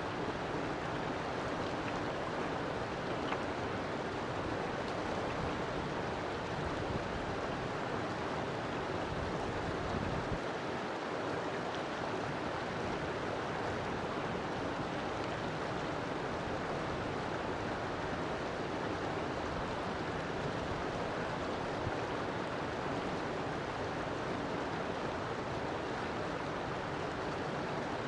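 River water flowing and splashing steadily over rocks.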